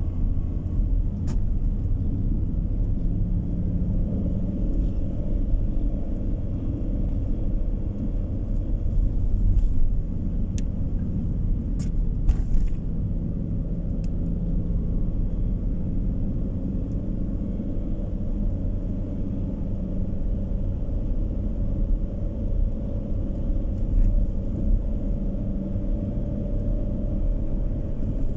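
Steady low rumble of a car driving on the road, engine and tyre noise heard from inside the cabin, with a few faint clicks.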